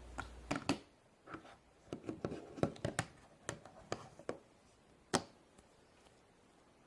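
Hands handling a Play-Doh playset's plastic pieces and dough: a quick run of small clicks and taps, with one sharper click about five seconds in.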